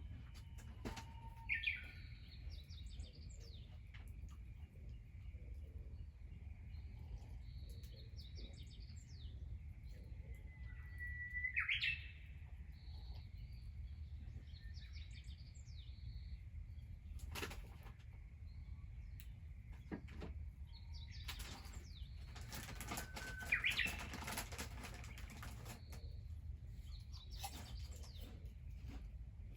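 Outdoor birdsong: a bird sings a loud sweeping phrase three times, about ten seconds apart, with smaller chirps between. A low steady rumble runs underneath, and there are a few scattered clicks.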